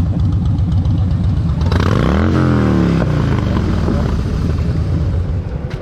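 Motorcycle engines running steadily. About two seconds in, one engine revs up and its pitch then falls away over about a second.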